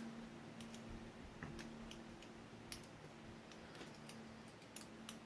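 Faint, irregular small clicks of a lock pick and tension wrench working the pin stack of an ABUS 83AL/45 padlock, with a low steady hum underneath.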